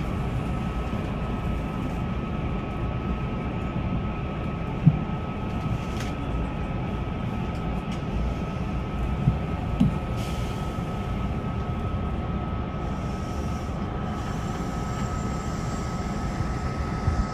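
Kintetsu electric commuter train heard from inside the front cab, moving slowly along a station platform: a steady low rumble with a constant high whine, and a few short knocks about five and ten seconds in.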